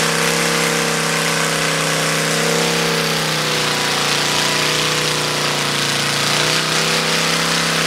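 Motorcycle engine held at steady high revs during a burnout: one constant engine note with a loud hiss over it, the pitch wavering slightly midway.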